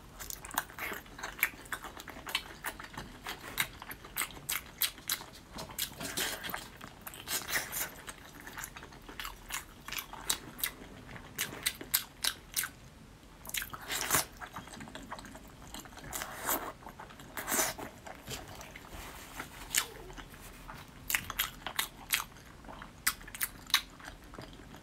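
Close-up eating sounds of a person biting and chewing braised beef tendon in chili sauce: irregular wet clicks and mouth smacks throughout, some louder than others.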